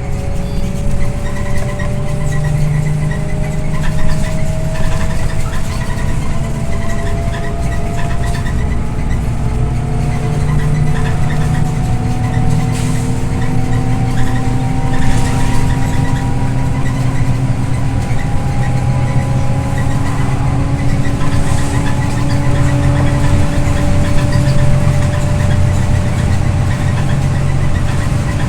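Scania OmniLink I city bus under way, heard from inside: a steady low engine rumble with a drivetrain whine that rises slowly in pitch as the bus gathers speed.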